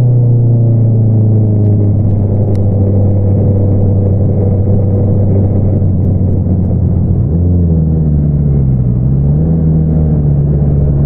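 2022 Honda CBR650R's inline-four engine running through an Akrapovič single-outlet exhaust at low, steady revs. About seven seconds in the revs rise sharply, dip, then climb again.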